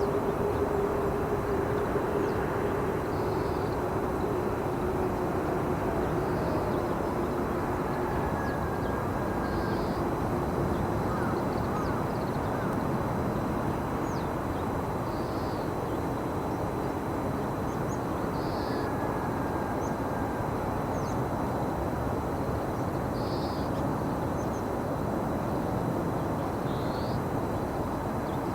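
Steady outdoor rumble of distant traffic, with a droning tone that fades out over the first ten seconds. A short, faint, high bird call repeats about every three to four seconds, about eight times.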